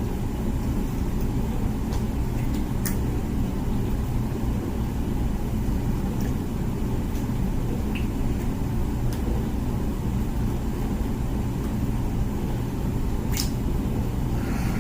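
Comfee dishwasher running its wash cycle: a steady low rumble from the machine, with a few faint ticks, the clearest near the end.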